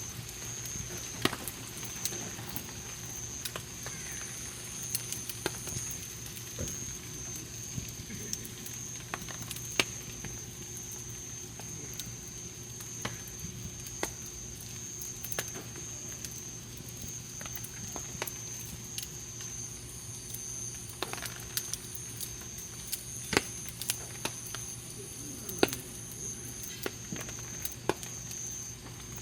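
Wood campfire crackling, with irregular sharp pops and snaps, a few of them louder. A steady high-pitched whine sits behind it.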